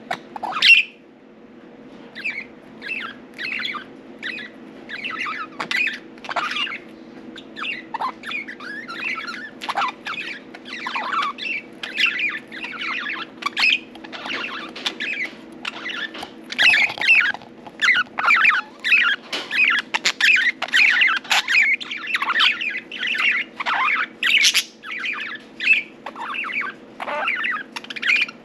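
Budgerigars chirping and chattering in quick short calls, sparse at first and growing busier about halfway through, over a steady low hum.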